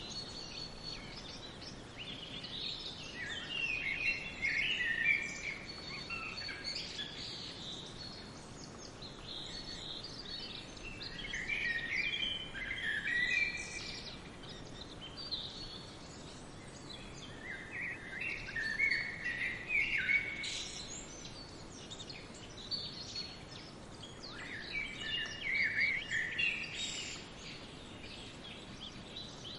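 Songbirds singing in four short phrases of quick high notes, one about every seven seconds, over a steady background hiss.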